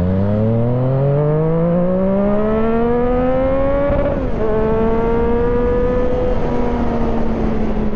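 Yamaha MT-09's three-cylinder engine under acceleration: the engine note climbs for about four seconds, drops sharply at an upshift, then holds a steadier cruising note. A low rumble of wind on the helmet microphone runs underneath.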